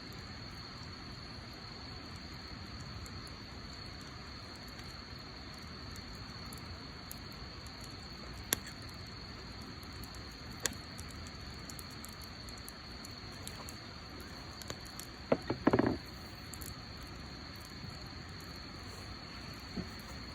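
Wood fire burning with a low hiss and occasional sharp pops, two single pops and then a short clatter of knocks about fifteen seconds in. A steady high-pitched whine runs underneath.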